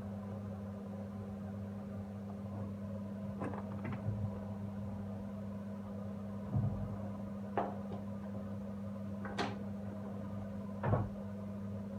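Kitchen handling sounds: about six separate knocks and clunks of cookware or containers being moved and set down, over a steady low hum.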